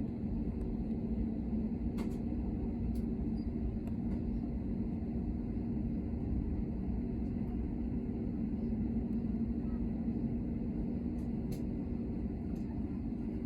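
Airliner cabin noise: the steady drone of the engines and airflow with a constant low hum, and a couple of faint ticks.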